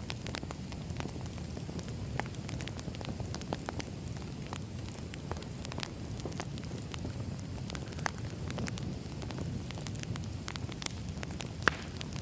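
Wood fire crackling: a steady low rumble of burning logs with irregular pops and snaps, and one sharper pop near the end.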